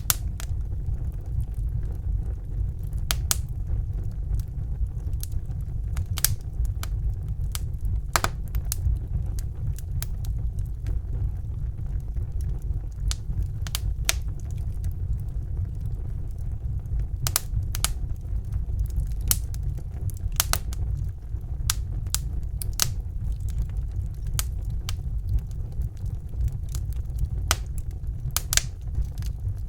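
Wood fire crackling in a fireplace: irregular sharp pops and snaps, a few every couple of seconds, over a steady low rumble.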